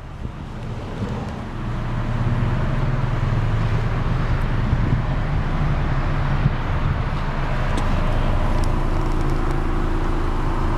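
1999 Honda Prelude's 2.2-litre DOHC VTEC four-cylinder idling steadily, heard at the polished exhaust tips. It grows louder about two seconds in, then holds steady.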